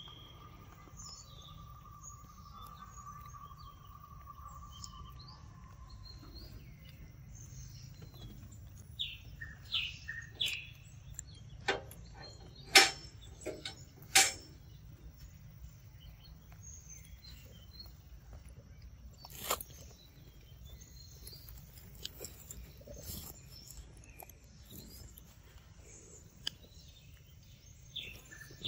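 Forest birds chirping with short, scattered calls over a faint steady high tone. A few sharp clicks come about halfway through and are the loudest sounds.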